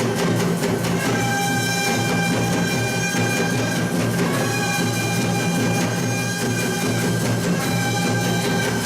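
Korean traditional music ensemble playing: a wind instrument holds long melody notes, each lasting about three seconds, over fast, steady drumming.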